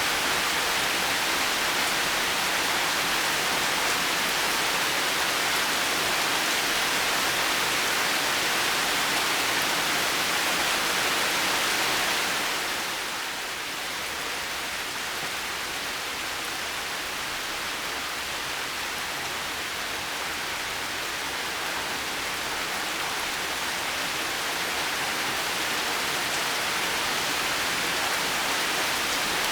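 Heavy rain falling steadily as an even hiss. It eases a little about halfway through, then slowly builds back up.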